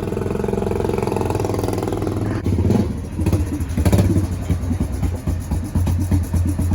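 Monster truck engine running steadily, then revving in quick uneven bursts from about two and a half seconds in.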